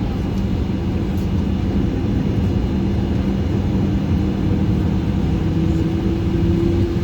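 Steady hum of a Boeing 737-800's jet engines, with a tone that rises slowly over the last few seconds.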